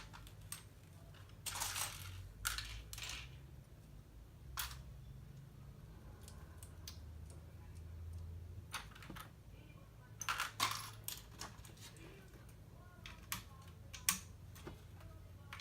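Plastic LEGO pieces clicking and rattling as they are handled, sorted and pressed together: scattered sharp clicks with short bursts of rattling, one cluster about two seconds in and another about two-thirds through. A low steady hum sits underneath.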